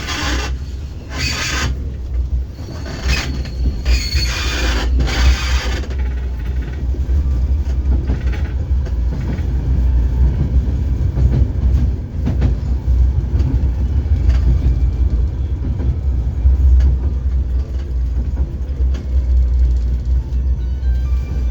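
Ust-Katav 71-628 low-floor tram in motion, with a steady low rumble and creaking. Loud noisy bursts come in the first six seconds or so, and then it runs more evenly.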